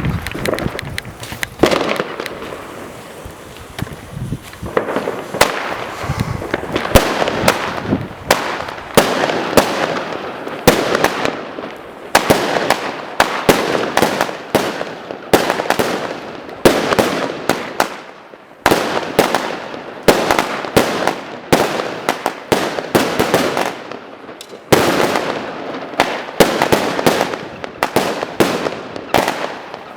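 Rubro Heavy Legend 16 firework cakes firing in succession: a steady string of launches and sharp titanium salute bangs, with a noisy haze between the reports. The bangs are sparse for the first few seconds, then come quickly, several a second, with two short lulls in the second half.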